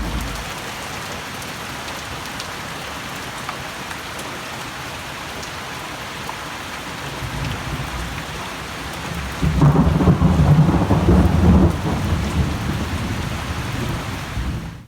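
Heavy rain pouring down steadily, with a roll of thunder that builds past the middle, is loudest for a couple of seconds, then eases back into the rain.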